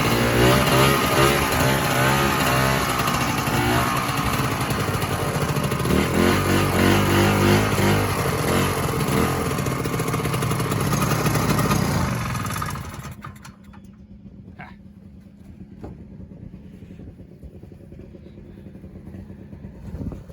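Vintage snowmobile two-stroke engine running loud under throttle, its pitch rising and falling. About thirteen seconds in the sound falls away quickly, leaving a faint steady hum.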